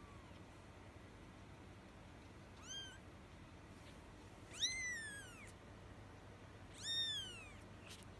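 One-week-old kittens mewing: three high, thin cries, each rising then falling in pitch, the first short and the next two longer, about two seconds apart.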